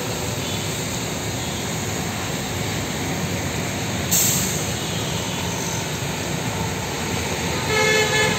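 Heavy rain pouring onto a road, a steady hiss with passing traffic. A brief burst of hiss about four seconds in, and a vehicle horn honks near the end.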